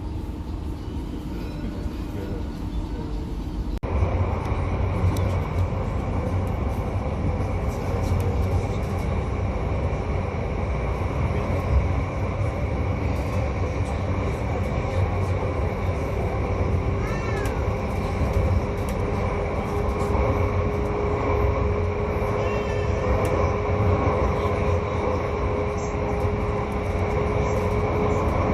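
Light-rail tram running, heard on board: a steady low rumble with a steady electric whine, and a few short rising squeals around the middle. The first four seconds are a quieter, different background before an abrupt change.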